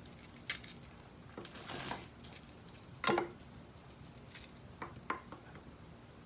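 Ravioli being laid into a casserole baking dish: scattered light clicks and taps, a short rustle, and one sharper clink with a brief ring about three seconds in.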